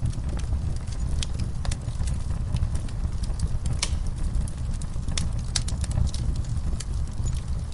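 Crackling fireplace: irregular sharp pops and snaps over a steady low rumble.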